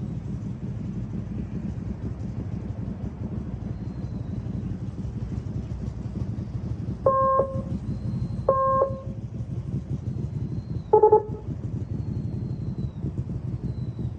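Motorcycle engine running at low speed with a steady low rumble. Three short beeps cut through it, two matching ones about seven and eight and a half seconds in and a slightly lower, shorter one about eleven seconds in.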